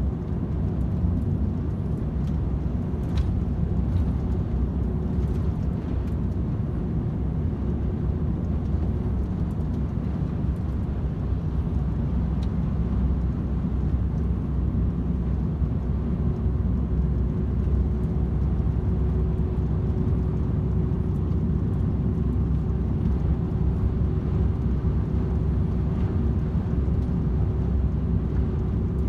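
DAF XF 510 truck cruising at a steady speed on a motorway: an even, low engine drone and road rumble with a faint steady hum.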